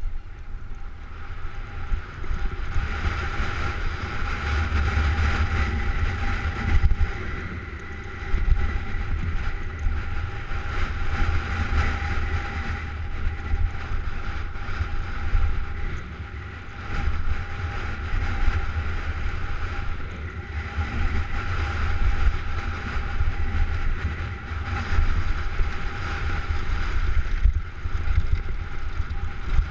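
Wind rumbling over the microphone of a camera riding a downhill mountain bike, with knocks and rattles from the bike over rough trail and a steady whine underneath.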